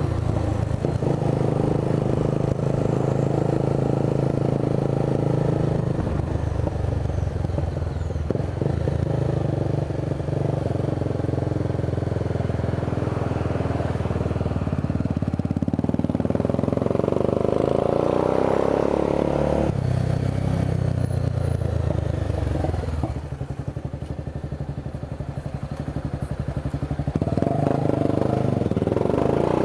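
Honda CB 300 motorcycle's single-cylinder engine running while being ridden, its pitch shifting up and down with throttle and gear changes. About two-thirds through it drops to a lower, quieter note, then picks up again near the end.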